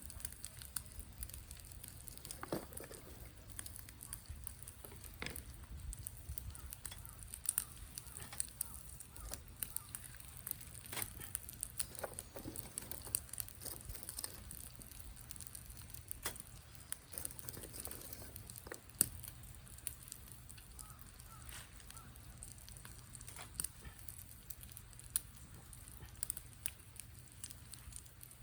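Wood fire crackling in a fire pit, with irregular sharp pops and snaps over a faint steady hiss.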